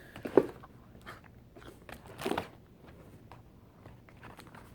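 Firework packaging being handled, crinkling and clicking, with a sharp crack about half a second in and another crinkly patch a little past two seconds.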